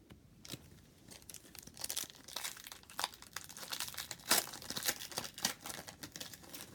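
A foil wrapper of a football trading-card pack being torn open and crinkled: an irregular run of crackles and rustles, loudest about four seconds in.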